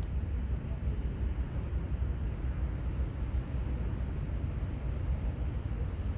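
Steady low outdoor rumble with no clear onset or change, and a faint high chirp of about four quick pulses repeating roughly every two seconds.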